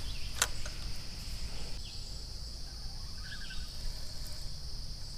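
Steady high-pitched insect chorus over a low outdoor rumble, with one sharp click about half a second in.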